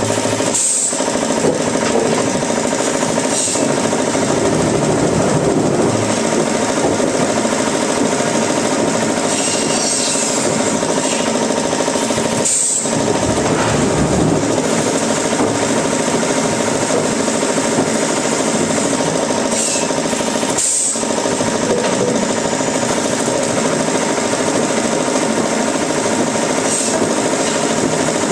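Wood-processing machinery running steadily in a workshop: a loud, continuous mechanical din that drops out briefly three times.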